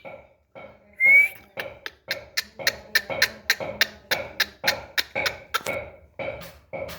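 Indian ringneck parakeet giving a short rising whistle about a second in, then a rapid run of short sharp calls, about three to four a second.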